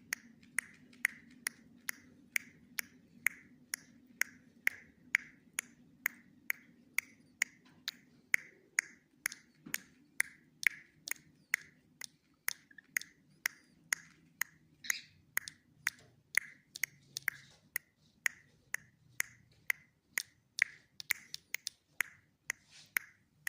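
Sharp, snap-like clicks repeating in a very even rhythm, about two a second.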